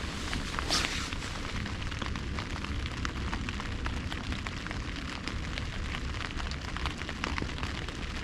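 Wood campfire crackling, with many small sharp pops and a louder pop about a second in.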